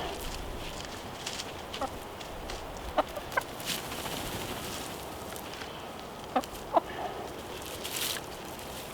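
Chickens clucking in short, sharp calls, the loudest about three seconds in and again near six and a half seconds, over faint rustling.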